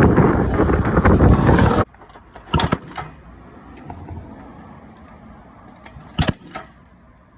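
Loud wind and riding noise on the microphone that stops abruptly a little under two seconds in. It is followed by much quieter background with a few short knocks, two close together and one later.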